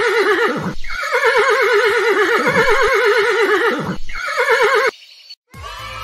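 Horse whinnying: a loud, trembling neigh repeated, one ending about a second in, a full one after it, and a third cut short, followed by a brief silence.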